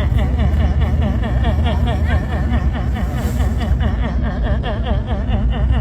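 Car engine being cranked by its starter without catching: a steady churning whose pitch rises and falls about four to five times a second as the engine turns over.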